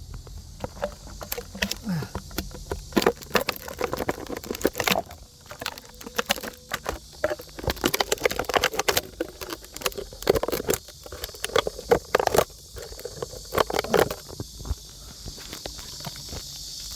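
Thin plastic PET drink bottle crackling and crinkling in irregular sharp clicks as it is cut by hand.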